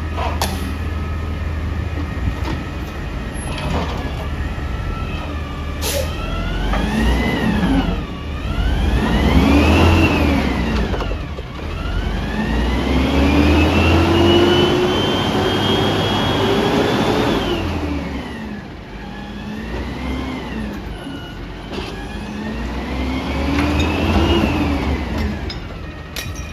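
Peterbilt 320 front loader garbage truck's engine idling, then revving up and down five times, once held high for several seconds, as it drives the hydraulics that work the lift arms and packer.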